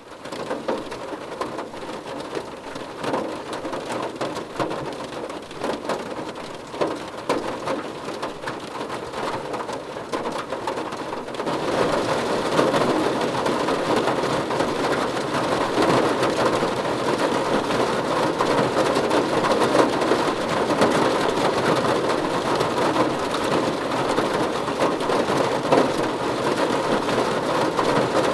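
Heavy rain, a dense patter of countless drops striking a surface, which grows heavier and louder about eleven seconds in.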